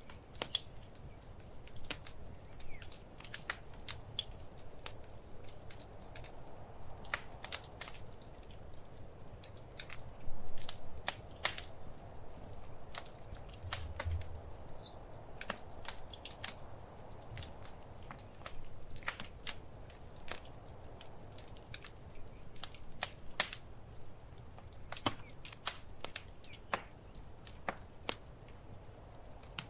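Wood fire crackling in a fireplace: irregular sharp pops and snaps over a soft steady hiss and low rumble, with a louder flurry about ten seconds in.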